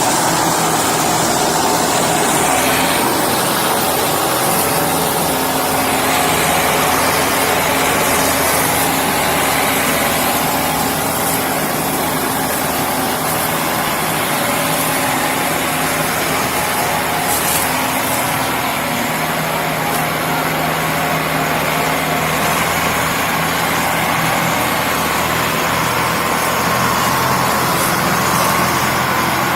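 Belarus tractor diesel engines running steadily under load while pulling a heavily loaded sugarcane trolley.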